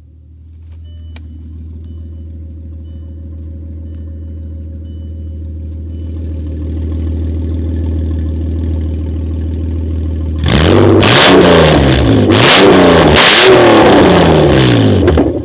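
1998 Audi A4 2.8 quattro's V6 idling with a loud, raw exhaust note from an exhaust leak. About ten seconds in it is revved hard several times, the pitch rising and falling with each blip.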